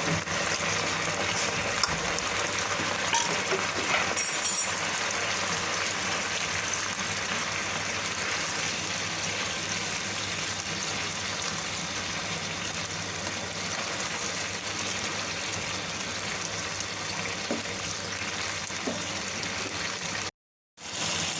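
Manchurian sauce bubbling steadily in a pan over a high flame, thickening after cornflour slurry has gone in. The sound cuts out briefly near the end.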